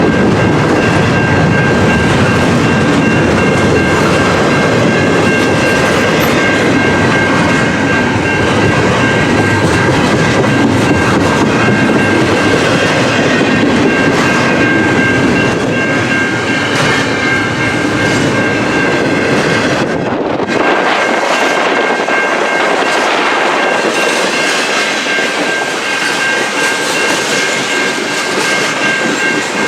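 Freight train cars rolling past close by, with the wheels clacking over rail joints and a steady thin high ringing from the wheels on the rail. About two-thirds of the way through there is a brief break, and after it the deep rumble is much weaker.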